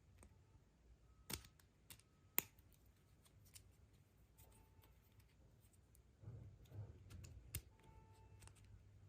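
Faint handling of small plastic toys and capsules: scattered light clicks, two sharper clicks in the first few seconds and some rustling later on.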